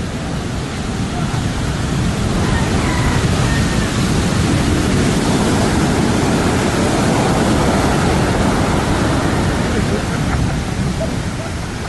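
Loud, steady rushing of a storm at sea: wind and breaking waves, swelling slightly about two seconds in, with faint voices beneath.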